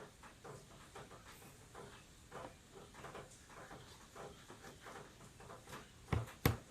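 Faint, irregular rustling of dress fabric being handled on a work table, with two light clicks about six seconds in.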